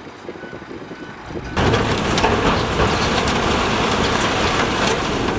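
Heavy construction machinery working: engine noise with dense rattling and clanking, which jumps in abruptly and loud about a second and a half in after a quieter stretch.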